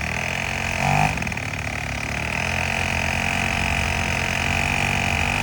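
Weed eater motor driving a kayak, running steadily at part throttle with a high whine, picking up a little about two seconds in.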